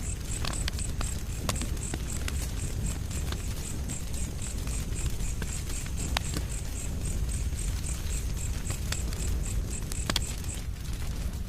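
Wood fire burning with a low steady rumble and scattered sharp crackles and pops. Over it runs a steady high chirping of about four pulses a second, which stops near the end.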